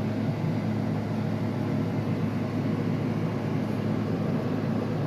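Steady mechanical hum: a low, even drone with no change in pitch.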